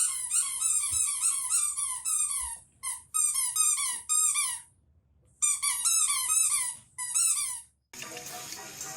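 A dog, likely a small dog or puppy, giving rapid high-pitched yips and whimpers, about five short falling cries a second, in bouts broken by brief pauses. About a second before the end the cries stop and a different, steadier noisy sound takes over.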